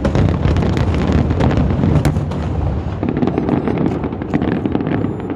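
Fireworks going off densely: a rapid, unbroken run of bangs and crackling from bursting shells over a low rumble, with a sharp crack about two seconds in.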